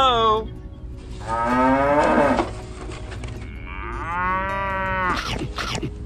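Cows mooing: two long, drawn-out moos one after the other, dubbed in as sound effects over the scene of toy cattle.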